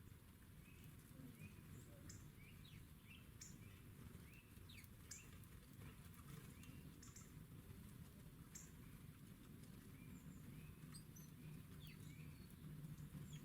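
Small songbirds chirping faintly, with many short, high calls and quick falling notes repeating irregularly over a low background rumble.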